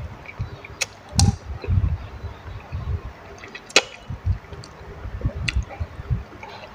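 A person chewing food with the mouth open and lip-smacking, in irregular bursts, with a few sharp clicks from the mouth.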